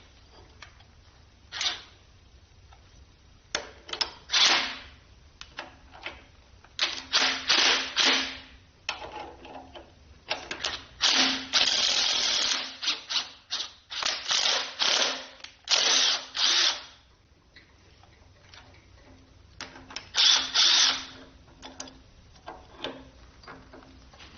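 Power tool run in repeated short bursts, some a fraction of a second and the longest about two seconds, with a steady motor hum under each burst and pauses between them.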